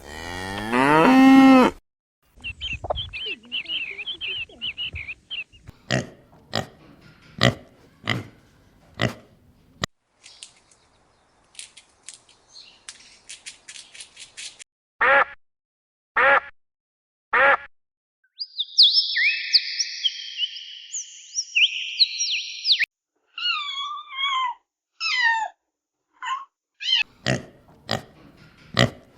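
A string of separate farm-animal calls following one another with short gaps, a cow mooing among them. The loudest is a rising call right at the start, followed by higher chirping and trilling calls and three short evenly spaced calls in the middle.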